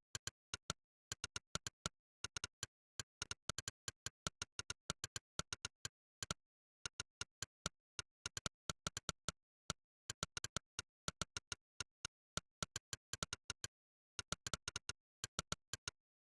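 Monkeytype's 'click' keypress sound effect: one short, sharp digital click per keystroke, in quick runs of several clicks a second broken by brief pauses, with dead silence between clicks.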